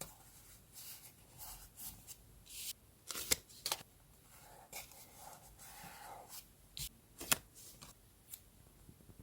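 Paper being handled while a journal is decorated: a run of short rustles and scrapes, with two sharp clicks, about three and seven seconds in.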